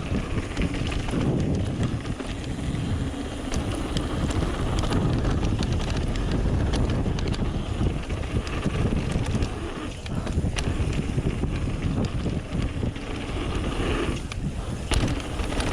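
Trek Remedy 8 mountain bike descending a dirt trail: steady tyre rumble over the ground, with many quick rattles and knocks from the bike, and wind buffeting the microphone.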